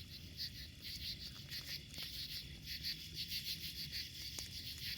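Crickets chirping in a steady chorus of repeated pulses, with a low rumble and a couple of faint pops from a wood bonfire underneath.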